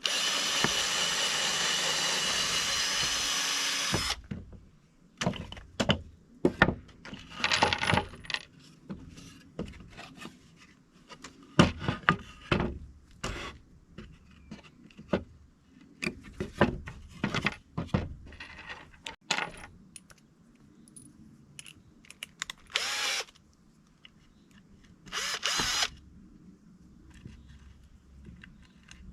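Power drill running steadily for about four seconds and then stopping abruptly. Many clicks and knocks of tools and wood being handled follow, with a few short bursts of the drill.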